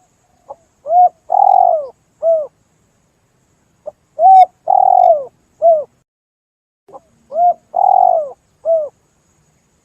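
Spotted dove (tekukur) cooing: three identical calls about three seconds apart, each a faint short note followed by three coos, short, long and short, the long middle coo falling in pitch at its end.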